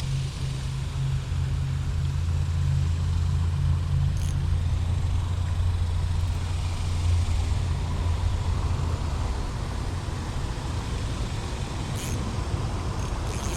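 A motor vehicle's low engine hum that fades away about eight seconds in, over steady road traffic noise.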